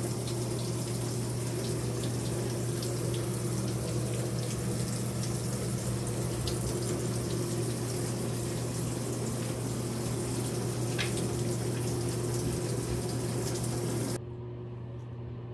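Tap water running steadily, with a low steady hum underneath, shut off suddenly about fourteen seconds in.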